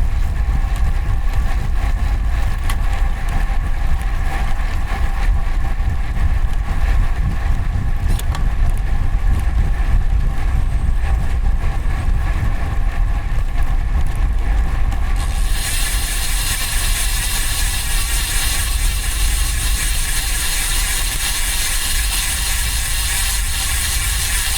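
Wind and road rumble picked up by the handlebar camera's microphone on a moving road bike, with steady traffic hum. About two-thirds of the way through, a steady high hiss comes in and holds.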